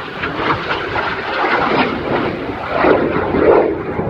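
Jet trainer aircraft, a Jet Provost T5, flying past with loud jet engine noise that builds and is loudest about three seconds in.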